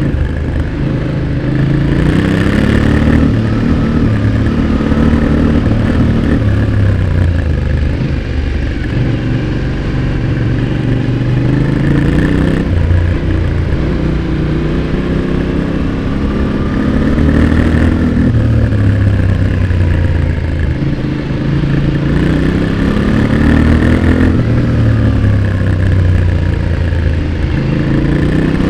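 Yamaha Ténéré 700's 689 cc parallel-twin engine heard close at the exhaust while ridden hard. The revs repeatedly climb and drop as the throttle is worked and gears change.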